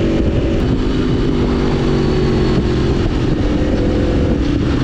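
2011 Aprilia Tuono V4 1000's 65-degree V4 engine running on the move, with the rush of riding noise behind it. The engine note eases off about half a second in, as the throttle is rolled back, and picks up again near the end.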